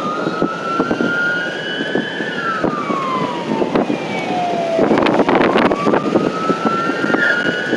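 Emergency vehicle siren on a slow wail, rising and falling in pitch about once every four to five seconds, over steady road noise. A short burst of crackling noise about five seconds in.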